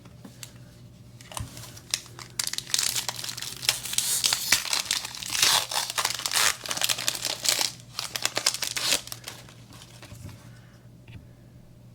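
A trading-card booster pack wrapper being torn open and crinkled in the hands, a dense run of crackling and tearing that thins out near the end.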